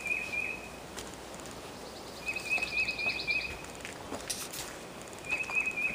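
A songbird singing: a short phrase of about half a dozen quick, even notes, repeated three times. A second, higher and buzzier call runs over the middle phrase, and there is a brief rustle a little past four seconds in.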